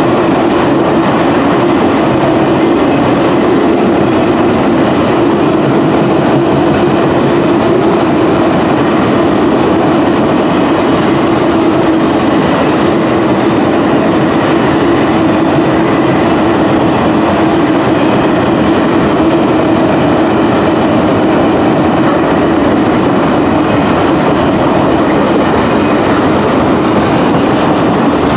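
Autorack freight cars rolling past close by: a steady, loud noise of steel wheels on rail, with a steady droning tone under it.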